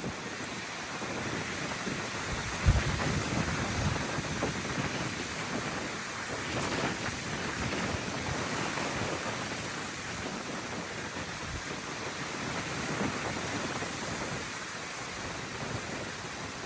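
Gusty wind, near tropical storm force, blowing in a steady rush and buffeting the microphone with low rumbling gusts, the strongest about three seconds in.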